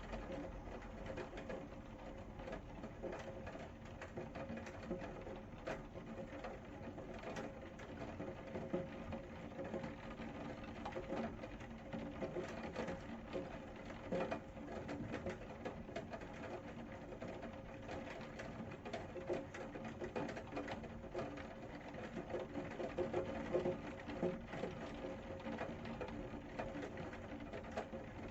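Rain falling, with many small irregular drip ticks over a steady low hum.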